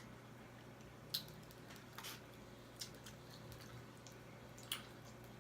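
Faint wet squishes and clicks of crab legs being pulled apart and eaten, four short sounds spread over a few seconds, over a steady low hum.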